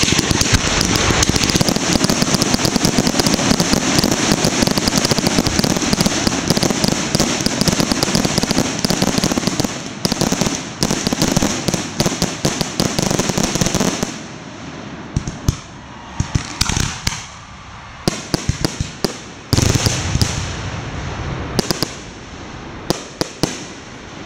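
Fireworks display: a dense barrage of rapid bangs and crackling over a steady hiss, thinning about halfway through to separate shell bursts with short gaps between them.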